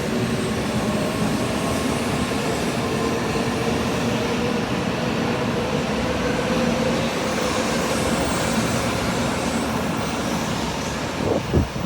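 Shinkansen bullet train running, a steady loud rush with a low hum, with a short thump near the end.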